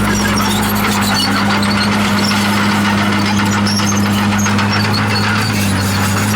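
Komatsu D51PX bulldozer's diesel engine running at a steady, unchanging pitch, with scattered high metallic squeaks over it.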